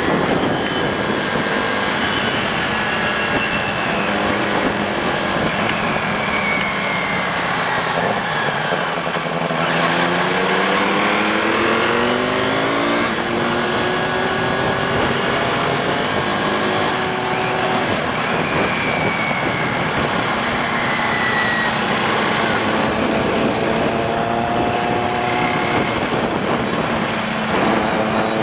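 Benelli TNT 600i's inline-four engine through an aftermarket IXIL exhaust while riding. The engine note climbs as it accelerates about ten seconds in, drops at a gear change, and climbs again later, over a steady rush of wind and road noise.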